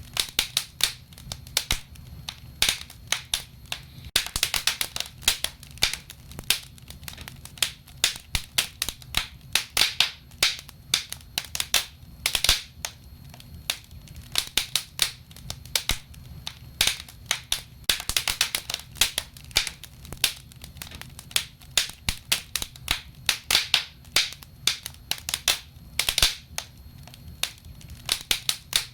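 Wood fire burning in a fireplace: irregular crackles and pops, often several in quick clusters, over a steady low rumble of the flames.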